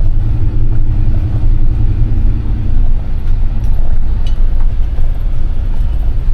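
First-generation Ford Raptor's V8 and its tyres on a dirt track, heard from inside the cab: a steady low rumble, with a faint engine note over the first few seconds.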